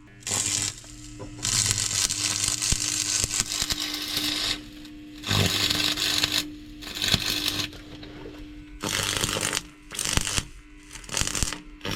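Stick (arc) welding: the arc crackles and sizzles in about six runs of one to three seconds each, with short breaks between them, over a steady low hum.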